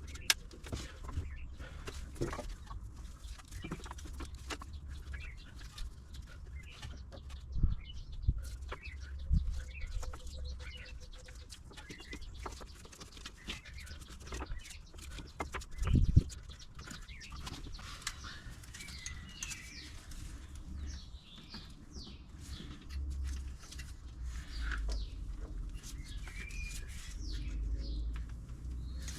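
Scattered small clicks and knocks of spark plug leads being handled and pushed onto a distributor cap, with a few louder thumps, the loudest about two-thirds of the way in. Birds chirp in the background, mostly in the second half.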